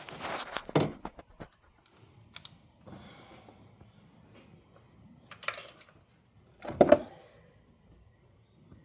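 Irregular clicks and clatter of hand tools working on a truck engine during a spark plug swap, with a few louder knocks, the loudest about seven seconds in.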